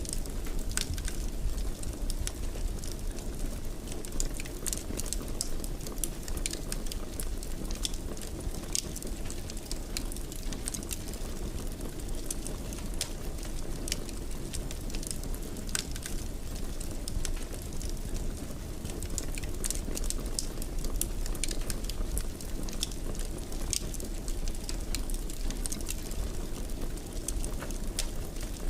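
Wood fire in a fireplace burning with a steady low rumble and frequent sharp crackles at irregular moments.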